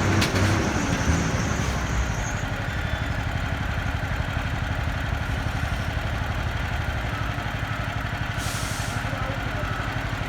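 An engine running, loud at first and dropping away within about two seconds as a vehicle moves off, then another engine idling with a fast, even throb. A short hiss about two-thirds of the way through.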